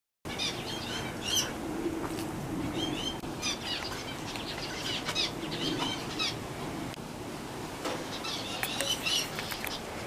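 Birds chirping and calling in short, repeated bursts of high notes, over a low steady background rumble.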